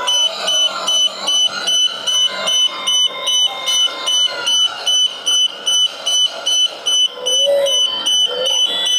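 High-pitched electronic warning beeper on a SFROG E400 excavator, beeping steadily about twice a second as the machine moves. Fainter wavering sounds run underneath.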